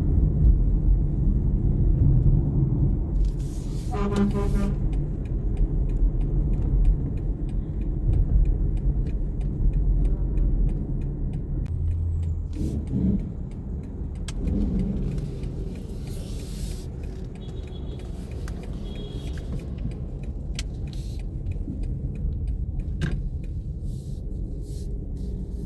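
A car running, with a steady low engine and road rumble. A brief pitched tone sounds about four seconds in, and scattered light clicks come in the second half.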